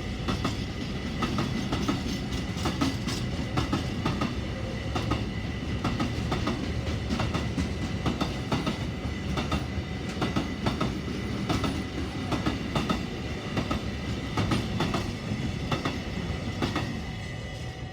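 Freight train's container wagons rolling past: a steady rumble with many sharp clacks as the wheels cross rail joints, and a faint thin whine over it. The sound fades near the end.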